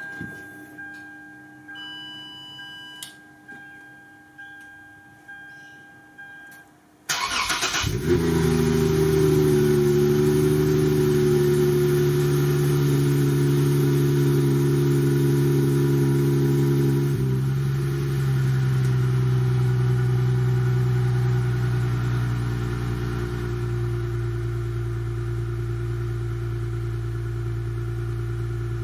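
Lexus IS350's 3.5-litre V6, with aftermarket headers and high-flow cats, started from cold. First come several seconds of repeated electronic chimes. Then a brief crank, and the engine catches at a high cold fast idle, which steps down twice as it settles to a lower, steady idle with a raspy exhaust note.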